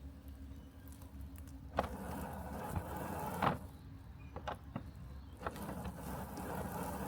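Robotic lawn mower running with a steady low hum. A mid-range hiss from its cutting swells and fades, and a few sharp clicks stand out.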